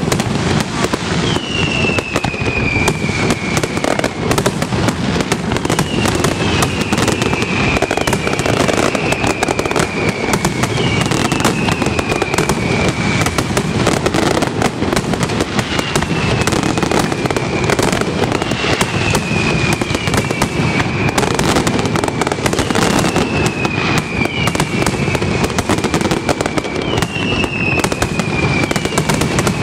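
Aerial fireworks display going off continuously: dense, rapid bangs of shell bursts and crackle with no break. Over it, a high whistle falling in pitch repeats every couple of seconds.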